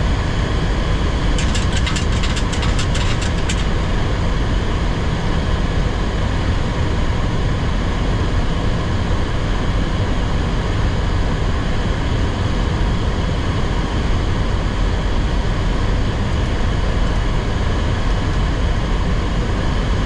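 Steady, loud rushing hum of airflow and engines heard inside a Boeing 737-800 cockpit on final approach. A quick run of sharp clicks comes about one to three seconds in.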